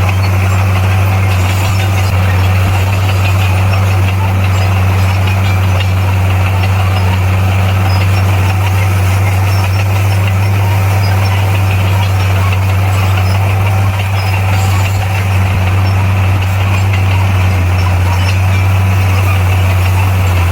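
Heavy-equipment diesel engine running at a steady, unchanging speed, with a deep even hum.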